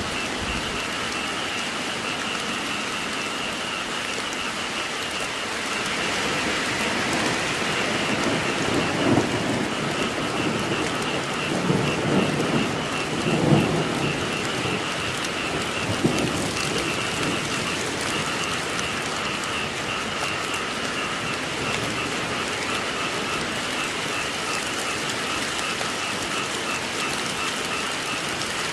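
Steady heavy rain falling, with a continuous high chorus behind it. Thunder rumbles in the middle, swelling in several peaks before fading back to the rain.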